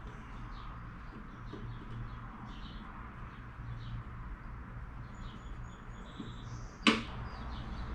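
Small birds chirping in short, scattered calls over a low steady hum, with one sharp click about seven seconds in.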